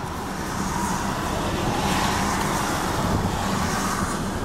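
A vehicle engine running steadily, with a low hum and a broad noise that swells slightly in the middle.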